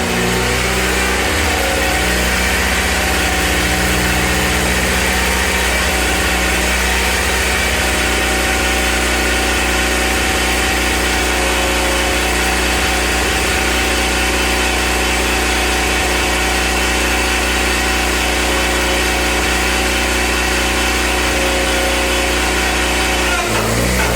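John Deere 720's gasoline pony motor running steadily while it turns the diesel engine over without fuel to build oil pressure. The pitch shifts slightly a few seconds in and changes again near the end.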